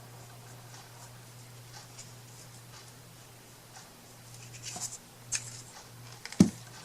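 Light scratching and small clicks of hands working on a craft piece at a table, over a steady low hum. The scratching gets louder a little before five seconds in, and there is one sharp knock near the end.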